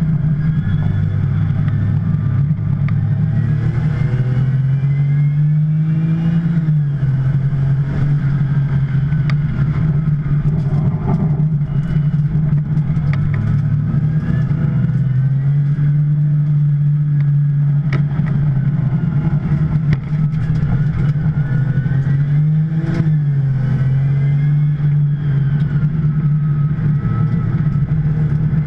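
2010 Porsche 911 Turbo's twin-turbo flat-six engine at racing speed, loud throughout, its note climbing and dropping back several times with gear changes and throttle, its turbos still making boost.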